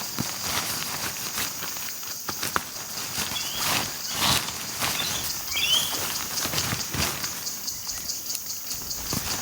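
Rustling and light knocks of camping gear being handled during tent setup, over a steady high insect drone, with a couple of short bird chirps about a third and two thirds of the way in.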